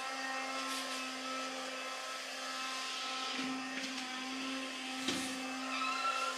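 An electric appliance motor running steadily, with a few short clicks or knocks about four and five seconds in.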